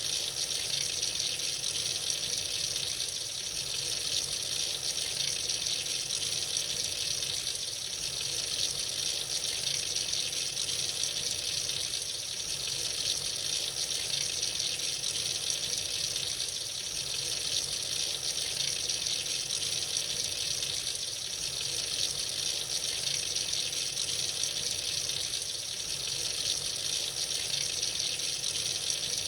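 Water running freely from a tap into a sink: a steady, unbroken splash and hiss.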